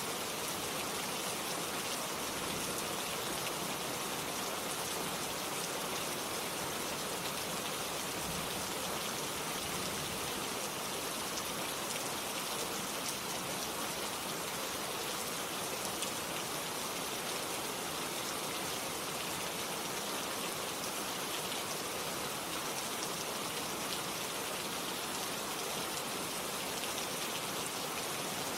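Steady rain falling, a dense even hiss of many drops hitting a surface, with no change in intensity.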